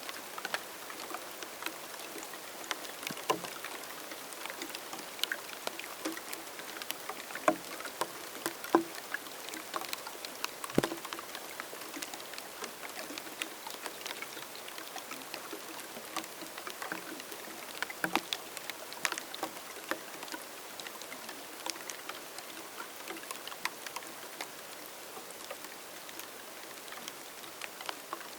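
Rain falling: a steady hiss with scattered individual raindrops striking irregularly, some louder and closer than others.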